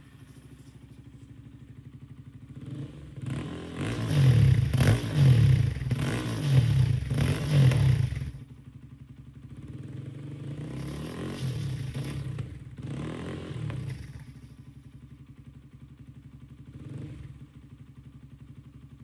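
Jawa 42 FJ's single-cylinder engine running through an aftermarket full-system exhaust, freshly started: it idles, is revved hard in about four blips a few seconds in, drops back to idle, then is revved more gently for a few seconds, with one small blip near the end before settling to idle.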